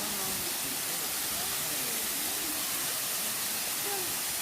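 A waterfall's falling water rushing steadily, with faint distant voices over it.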